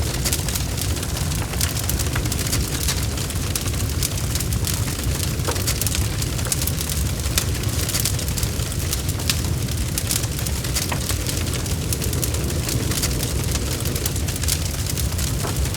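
Log fire burning in a fireplace: a steady low rumble with many sharp crackles and pops from the burning wood, scattered irregularly throughout.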